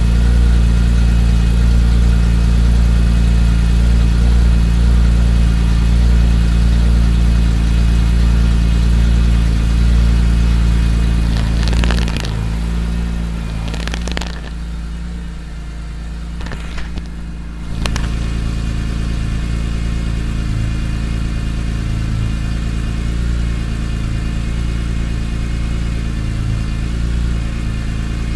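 Car engine idling steadily during warm-up after an overnight cold start. About twelve seconds in the sound drops and thins for several seconds with a few sharp clicks, then returns to a steady idle.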